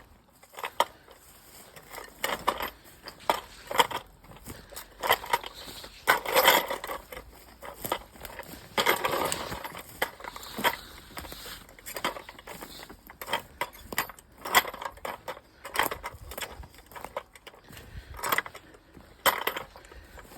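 Footsteps crunching along a woodland trail, with a carried noisemaker rattling in irregular clicks to warn wildlife off, and longer brushing rustles about six and nine seconds in.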